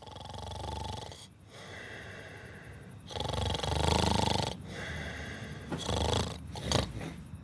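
A person snoring: a series of rough, rattling snores, the loudest about three to four and a half seconds in.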